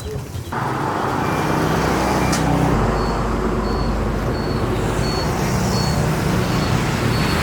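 Steady road-vehicle noise, an engine running with traffic and road rumble, starting abruptly about half a second in. A faint high beep repeats about every half second in the second half.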